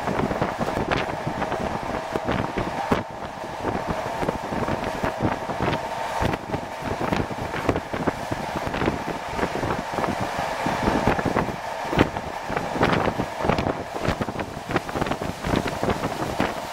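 Passenger train carriage running at speed, heard through its open vestibule door: wind rushing in over the irregular rattling and knocking of the wheels and carriage, with a steady droning tone underneath.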